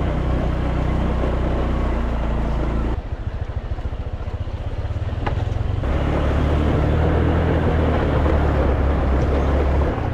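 Motor scooter engine running while riding; it eases off about three seconds in and pulls strongly again about three seconds later.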